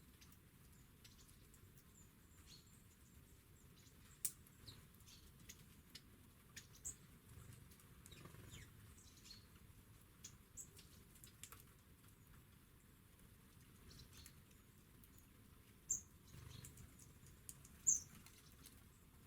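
Faint, scattered short high chirps and calls of small garden songbirds, with two louder calls near the end.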